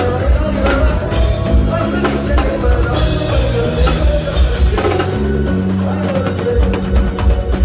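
Live band playing, with a drum kit keeping a steady beat over a bass line.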